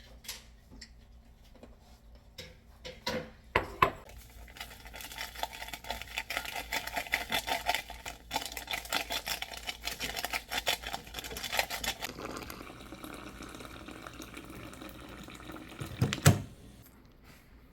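Water running into a sink with splashing and clattering, settling into a steadier flow, with a sharp knock near the end.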